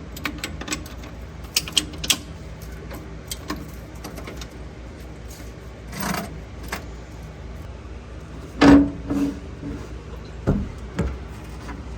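Metal parts and tools being handled during suspension work: scattered clinks and rattles, with a louder ringing clank about two-thirds of the way through, over a steady low hum.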